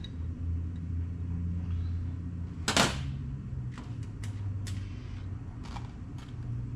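Small metal carburetor parts being handled and fitted by hand: one sharp clack a little under 3 s in, then a few lighter clicks, over a steady low hum.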